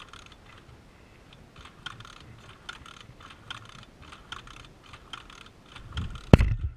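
Light, irregular clicking from a dirt bike's kick-start mechanism being worked over an engine hydrolocked with oil, with a sharp knock about six seconds in.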